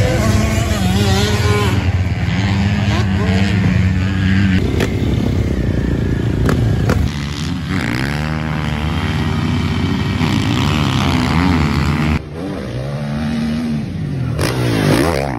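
Motocross bike engines running hard on a track, revving up and down through the gears. The sound changes abruptly about twelve seconds in.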